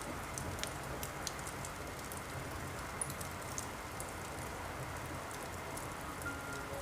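Steady rain with scattered small clicks and drips. A few soft sustained music notes come in near the end.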